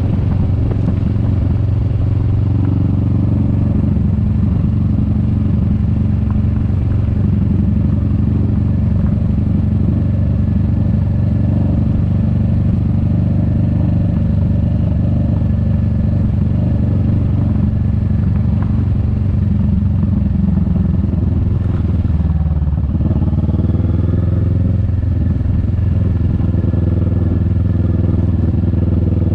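Kawasaki Vulcan S 650's parallel-twin engine running under way. About two-thirds of the way through the engine note dips briefly, then climbs again as it pulls away.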